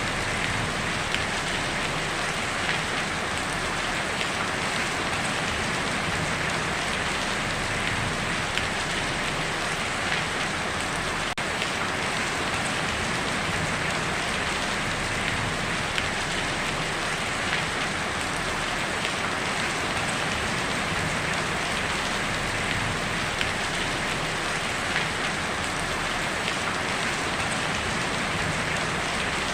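Heavy rain falling steadily on a tin roof: a dense, even patter with scattered louder drops.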